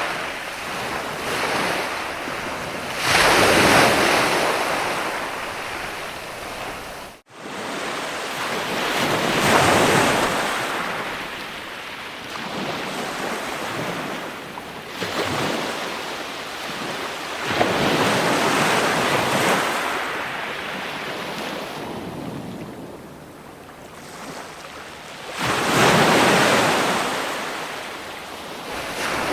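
Ocean waves breaking and washing in, swelling and ebbing in surges every four to seven seconds, broken once by a momentary dropout about seven seconds in.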